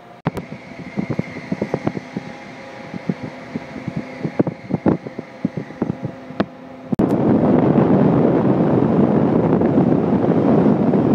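Ride noise from aboard a moving train: irregular clicks and knocks from the wheels on the track over a steady running hum. About seven seconds in it gives way abruptly to a loud, steady rush of wind on the microphone.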